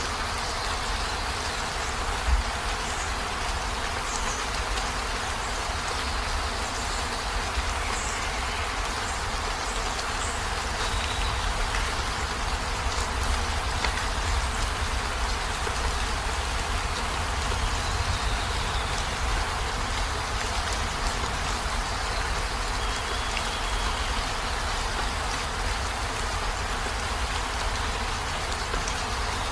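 Heavy rain falling steadily: an even, continuous hiss with a low rumble underneath. A few faint, brief high chirps sound over it, and there is one small thump about two seconds in.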